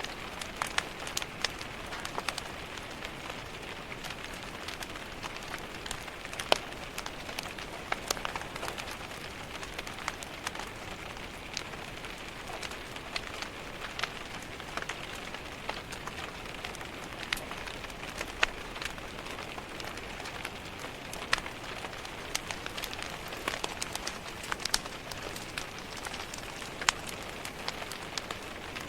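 Steady rain tapping against window glass, with the crackle of a wood fire in a fireplace: a constant hiss with irregular sharp pops and ticks.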